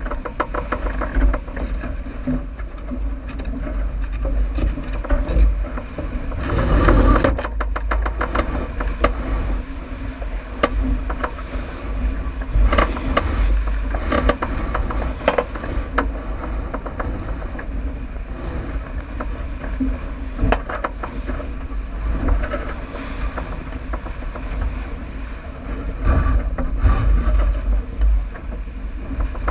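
Wind buffeting the microphone and water rushing past the hull of a J80 sailboat running downwind, with scattered knocks and clicks.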